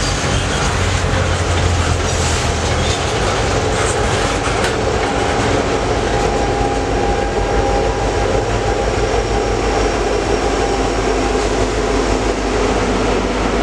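A freight train rolling past close by: a steady rumble and clatter of steel wheels on the rails.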